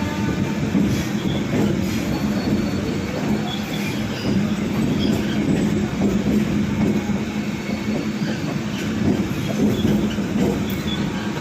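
Electric multiple-unit (EMU) local train running on the track: a steady rumble of wheels on rail, with short high squeals from the wheels now and then.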